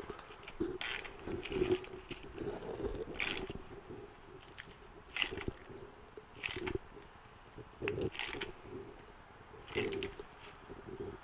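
Hand ratchet with an 8 mm socket tightening a bolt, clicking in short spells with a pause of a second or two between strokes.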